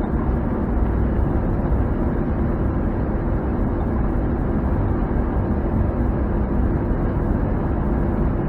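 Truck engine and road noise heard from inside the cab while driving uphill towing a heavily loaded trailer: a steady, unbroken drone.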